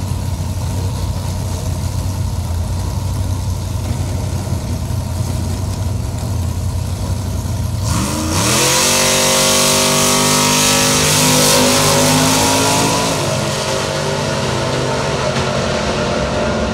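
Drag-racing engines idling at the start line, then launching at full throttle about eight seconds in: a sudden loud surge with the engine pitch climbing steeply, held high for several seconds and easing off toward the end.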